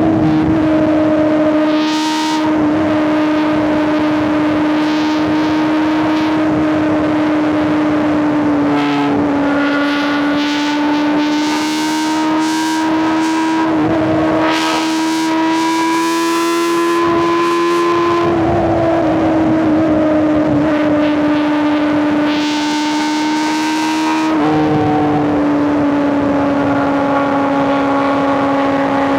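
Superbike inline-four engine and exhaust at a steady highway cruise, holding an even drone with small dips and rises in pitch a few times as the throttle changes, over wind rush.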